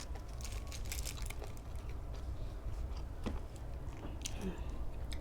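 Close-up eating sounds: chewing and crunching, with a run of quick sharp clicks in the first second and a few more later, over a steady low hum.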